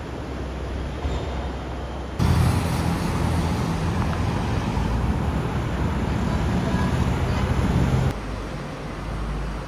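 A car engine running loud and steady over street traffic noise, starting suddenly about two seconds in and cutting off just as suddenly about eight seconds in.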